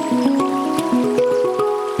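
Handpan played in a quick run of struck notes, about six a second, each note ringing on and overlapping the next.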